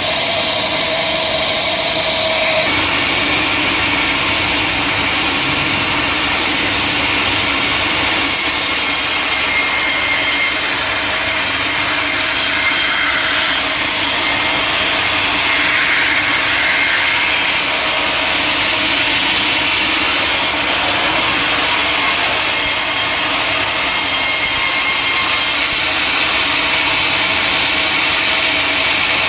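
Sawmill saw running steadily while cutting acacia wood, its sound shifting about three seconds in.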